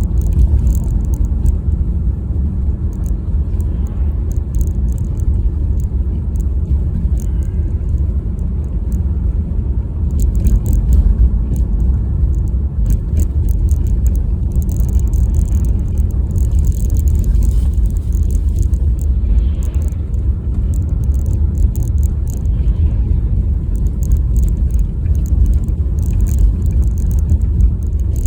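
Car driving on a snowy road: a steady low rumble of engine and tyres, with faint intermittent crackling higher up.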